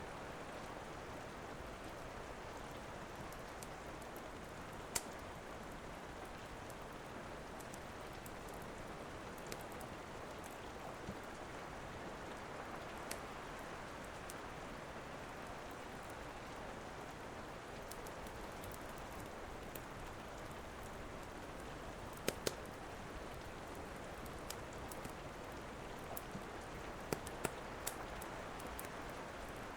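Steady rain with the scattered sharp pops and crackles of a wood fire. A close pair of louder pops comes a little past the middle, and several more near the end.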